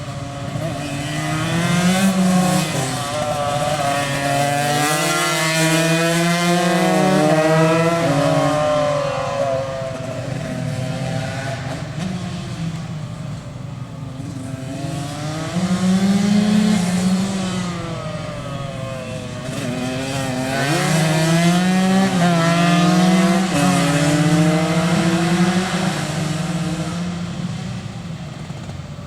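Tuned two-stroke racing motorcycle engines at full throttle, the pitch climbing and dropping again and again as they shift up through the gears. There are two loud runs, the second starting about fifteen seconds in.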